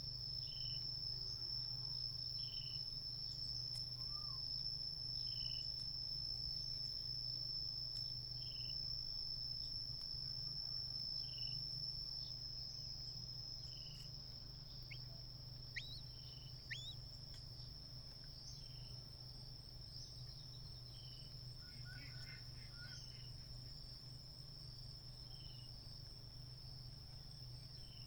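Insects trilling outdoors in one steady, high-pitched continuous note. A softer short note repeats about every second and a half, and two sharp brief chirps come about halfway through.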